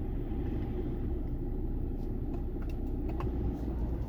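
A steady low rumble of the Mercedes-AMG GLE 43's 3.0-litre twin-turbocharged V6 idling, heard from inside the cabin. A few faint clicks come in the middle.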